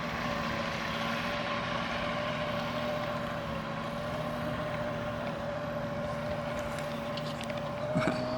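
75 hp Evinrude Starflight V4 two-stroke outboard running at a steady speed, its pitch holding even, the motor running well after the idle circuit was tuned. A short knock about eight seconds in.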